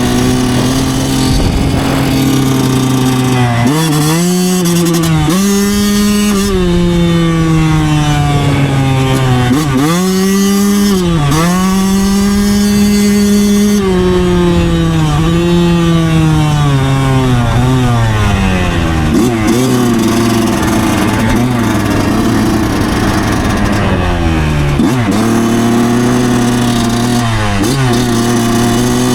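2009 Yamaha YZ125 single-cylinder two-stroke engine under way, its pitch repeatedly dropping and climbing again as the throttle is rolled off and on, with a longer drop in revs about halfway through.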